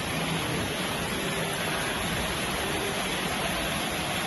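Steady rain, an even hiss with no separate drops or gaps.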